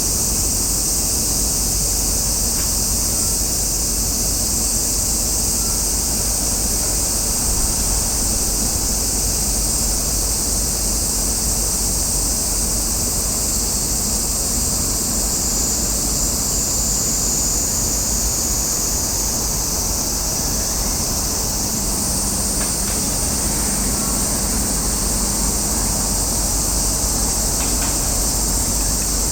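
Steady outdoor summer ambience: a continuous high-pitched insect drone, typical of a cicada chorus, over a low rumble of wind. The insect drone grows slightly louder about two-thirds of the way through.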